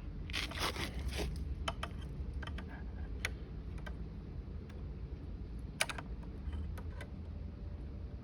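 Small metal clicks and taps of a dial bore gauge being set against a micrometer, with a brief scraping rustle about half a second in, over a steady low hum.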